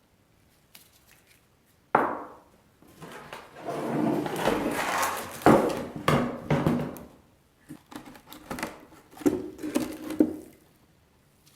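Old fiberglass being broken and stripped off an ATV seat unit by hand: a sharp knock about two seconds in, then rough scraping and cracking with further knocks, and another short burst of knocks and scraping near the end.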